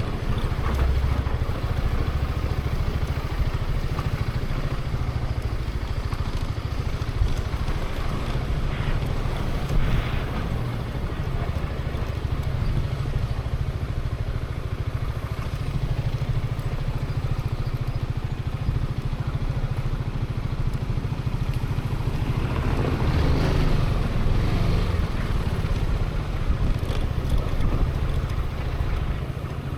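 Zontes 350E scooter's single-cylinder engine running steadily while riding, with a louder, brighter swell of engine and road noise about three-quarters of the way through.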